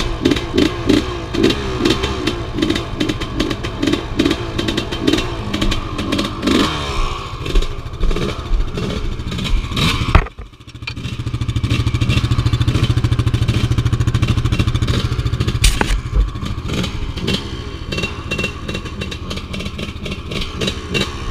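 Off-road engine running under load over rough ground, with frequent rattles and knocks. Just after ten seconds the sound cuts out sharply, then comes back as a steady low drone for a few seconds before the rougher running returns.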